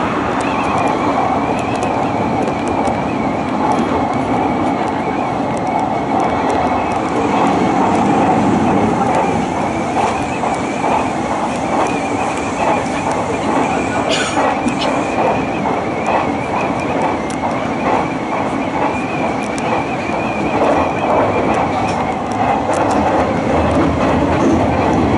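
Hanshin Railway electric train heard from inside the passenger car, running at speed: a steady rumble of wheels on track with scattered rail clicks and a high, wavering whine over it.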